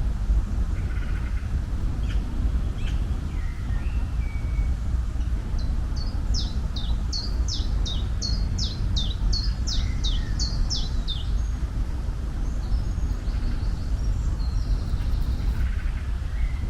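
A small songbird singing a run of about a dozen quick, high, downward-sliding notes, about two a second, with a few faint chirps before and after. A steady low rumble runs underneath.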